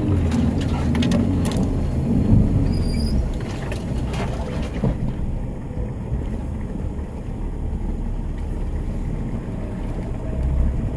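Off-road vehicle's engine running as it crawls through deep mud, heard from inside the cab, pulling harder for the first couple of seconds. A few short knocks and clatters come in the first two seconds and again about four seconds in.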